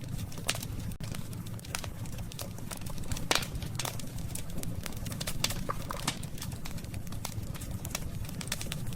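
Campfire of burning wood crackling, with irregular sharp pops and snaps, the loudest about three seconds in, over a low steady rumble.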